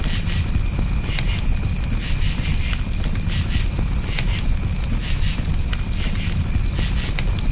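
Campfire crackling, with scattered sharp pops over a steady low noise of the burning wood, while crickets chirp in a high, pulsing trill.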